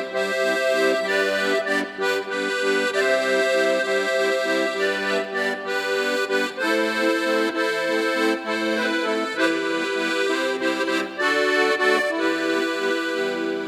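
Instrumental interlude between sung verses of a hymn: a melody played over sustained chords, with no singing.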